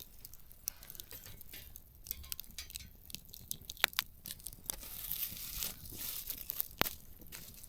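Open wood campfire crackling, with irregular sharp pops and snaps over a faint hiss. Two louder pops come about four seconds in and again near seven seconds.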